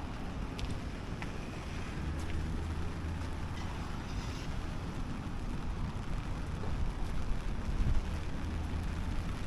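Wind rumbling on the microphone, swelling in gusts, over a steady hiss of rain, with a few faint light taps.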